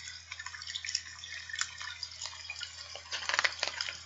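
Recorded rain sound effect played softly: a steady patter with small drips, louder for a moment about three seconds in.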